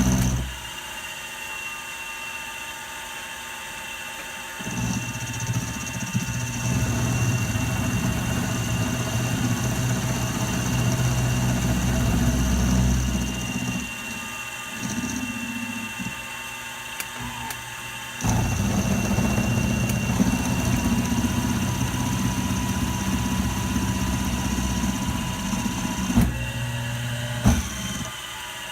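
Milling machine running with a steady high whine. Twice a louder, lower noise comes in for several seconds, from about five to thirteen seconds in and again from about eighteen to twenty-six, as the cutter works the steel of a knurling tool. A couple of sharp knocks come near the end.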